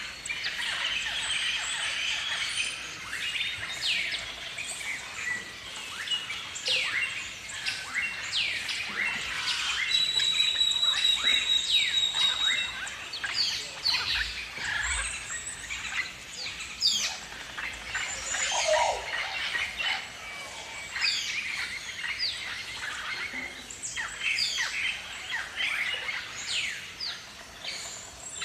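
A flock of galahs (rose-breasted cockatoos) calling: many short, high, overlapping calls, with a thin steady high note a third of the way through.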